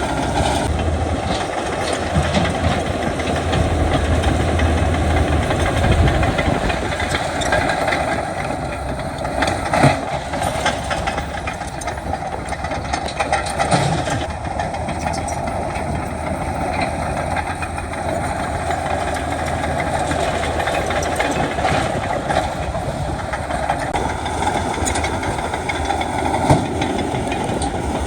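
Heavy diesel earthmoving machinery running steadily under load, with metallic clanking and a few sharp knocks, the loudest about ten seconds in and near the end.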